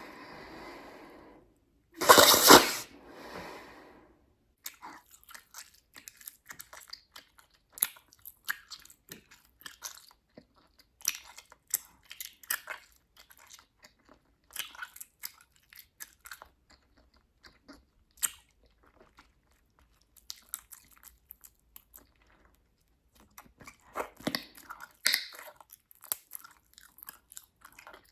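Bubblegum being chewed close to the microphone: wet snapping and smacking clicks scattered throughout. There is a loud burst about two seconds in and a dense run of snaps near the end.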